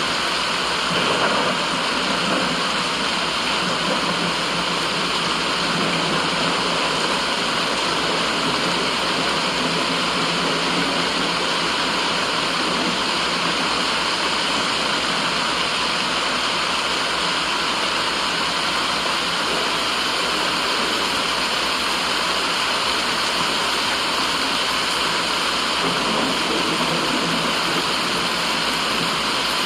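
Continuous steady rushing noise, even and unchanging, played as white noise.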